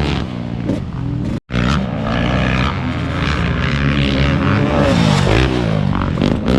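Motocross dirt bike engines revving up and down repeatedly as riders work the throttle around the track, with a momentary cut to silence about one and a half seconds in.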